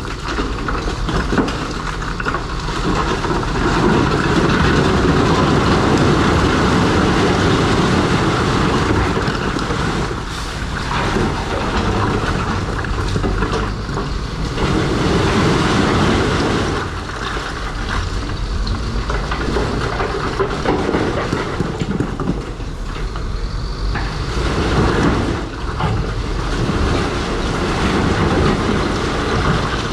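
New Holland crawler dozer working: diesel engine running under load, with steel tracks clattering as it spreads rock, the level rising and falling every few seconds.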